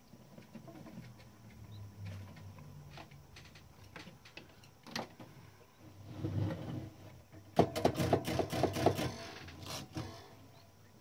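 Klein Adler 2 portable typewriter's mechanism being worked by hand: scattered light clicks, a dull knock, then a quick run of loud clacks lasting about a second and a half, the loudest part, followed by one more clack.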